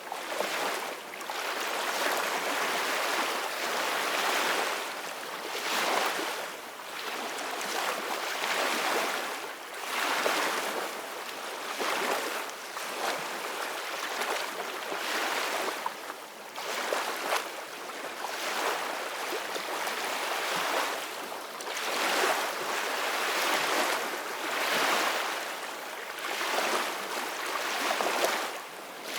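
Sea waves washing and splashing, a hissing wash with little bass that swells and eases irregularly every few seconds.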